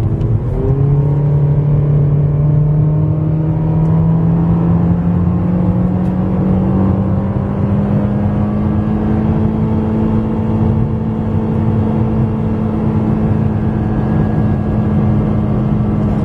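2014 Honda Civic EX's 1.8-litre four-cylinder engine accelerating hard through its CVT. The engine note jumps up about a second in, then holds a nearly steady drone that climbs only slowly as the car gains speed, the way a CVT holds the revs under full throttle. A low road rumble sits underneath.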